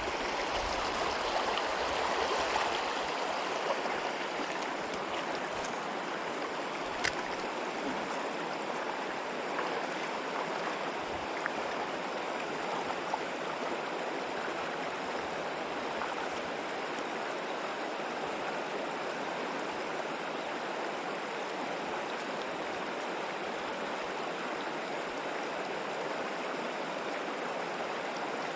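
Steady rush of river water flowing through shallows, with a few brief clicks, the sharpest about seven seconds in.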